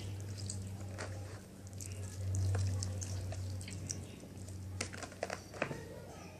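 Soft wet handling sounds and scattered clicks of kitchen work, with several quick clicks close together a little after halfway, over a steady low hum.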